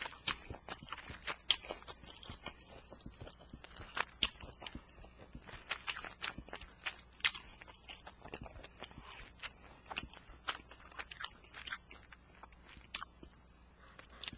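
A person chewing and biting food close to the microphone, with many irregular sharp mouth clicks and crunches.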